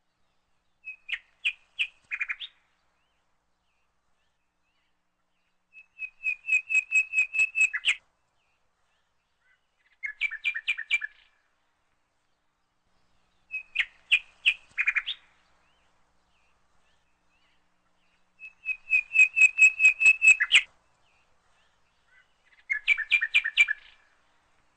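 A bird singing: short phrases of quick, evenly spaced chirps, each lasting one to two seconds and repeated six times, a few seconds apart.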